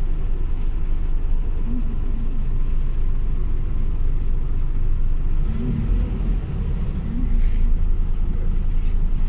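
Scania OmniLink CL94UB city bus under way: a steady low engine and road rumble that swells a little about seven seconds in.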